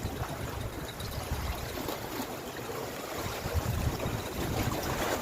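Steady rush and lapping of seawater at the shore, the waves low and calm.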